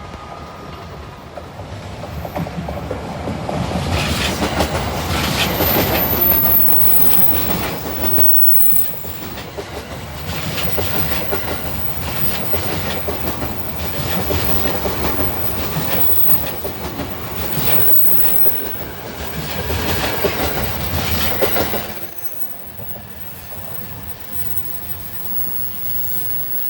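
A JR East E657 series limited express Hitachi electric train passes at speed, its wheels clicking over the rail joints. The sound builds over the first few seconds and is loudest around 5 to 6 seconds in and again around 20 to 21 seconds. It cuts off suddenly about 22 seconds in as the train clears, leaving a lower steady background.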